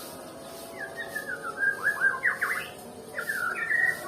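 White-rumped shama (Nias murai batu) singing: two bursts of quick whistled notes that slide up and down, the first starting about a second in and the second just after three seconds.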